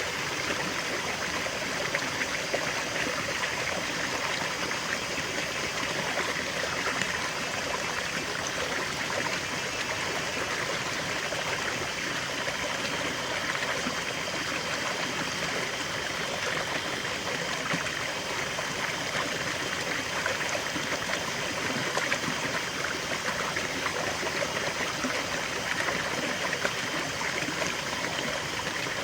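River water flowing over rocks: a steady rushing babble with fine splashing and trickling, unchanging throughout.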